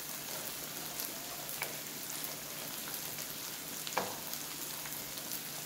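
Vegetables frying in a hot wok with a steady sizzle, broken by a couple of light knocks as pieces of pumpkin are dropped into the pan.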